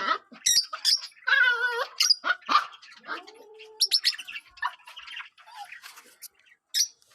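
Pet lovebirds chirping and squawking in many short, sharp high calls, with a few longer warbling calls among them.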